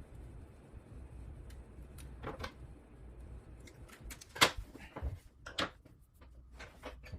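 Handling noises: a few sharp clicks and knocks of parts or tools being moved, the loudest about four and a half seconds in, over a low steady hum.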